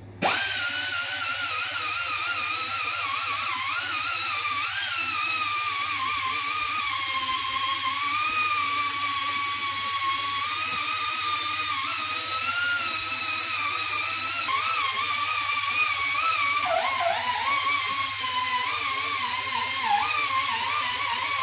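Right-angle die grinder whining at high speed as it grinds off old weld on a steel plow frame, its pitch wavering and sagging as the wheel is pressed into the metal. It starts abruptly and runs without a break.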